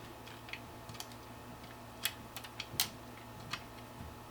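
Protective plastic film being picked at and peeled off a graphics card: a string of irregular small clicks and crackles, the loudest two about two and three seconds in.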